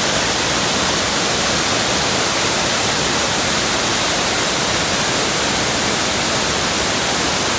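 A steady, even hiss of noise at a constant level, spread across the whole range from low to very high.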